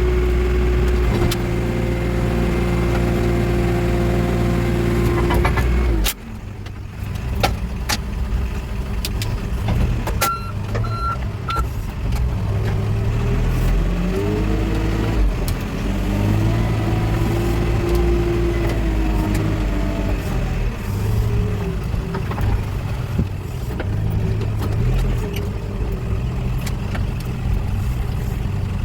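Backhoe loader's diesel engine running under load. The steady note drops abruptly about six seconds in, then the engine pitch rises and falls as the machine works. Three short beeps sound about ten seconds in.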